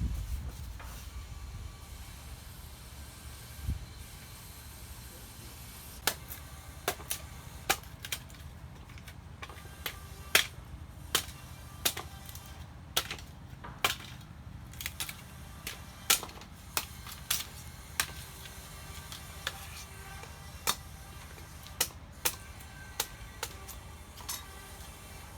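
A run of sharp knocks or taps, irregular at about one to two a second, over a low steady rumble; the first knock comes about six seconds in.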